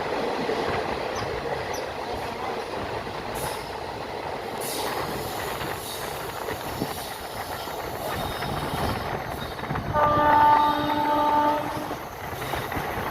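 Passenger train running with a steady rumble of wheels and carriage noise. About ten seconds in, a locomotive horn sounds one long chord-like blast, and a second blast starts near the end.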